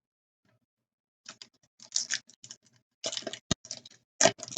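Hockey trading cards being handled and flipped through one by one, card stock giving irregular crisp clicks and short rustles, with one sharp snap about three and a half seconds in.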